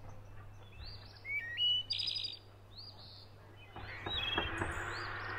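Small songbirds chirping, several short calls that rise in steps. About four seconds in, a scratchy scraping noise with a few knocks starts and carries on.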